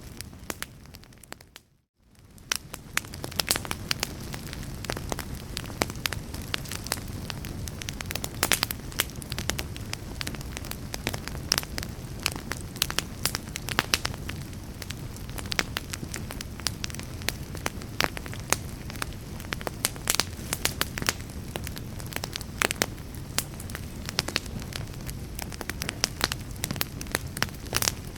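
Wood fire in a fireplace crackling, many sharp snaps and pops over a steady low rumble. About two seconds in the sound fades out briefly and comes back up.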